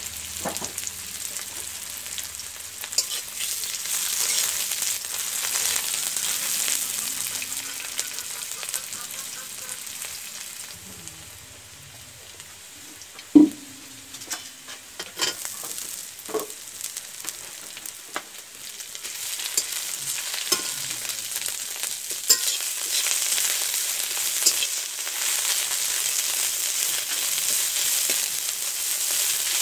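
Sliced onions sizzling in hot oil in a metal wok, stirred and scraped with a metal spatula. The sizzle dies down in the middle and picks up again later. One sharp knock near the middle is the loudest sound.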